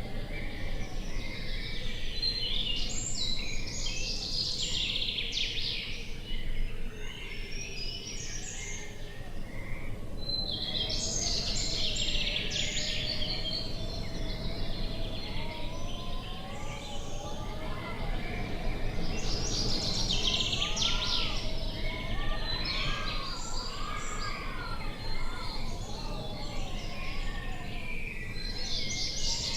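Birds chirping and twittering in busy bursts that come and go, over a steady low wind noise. In the second half, a few rising-and-falling calls sound in the middle range.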